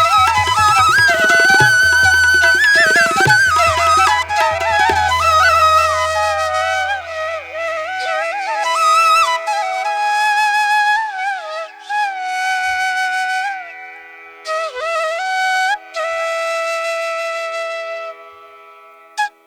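Background music: a solo flute plays a slow, ornamented melody with vibrato over a low drone. The drone fades out after about six seconds, and the music grows quieter near the end.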